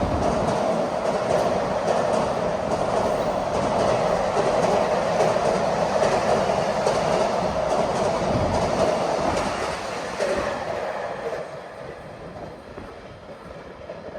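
Container freight train rolling through at speed: a steady rumble and hum of steel wheels on rail with quick clickety-clack from the wagons' wheels over rail joints. The tail of the train passes about ten seconds in and the sound fades away.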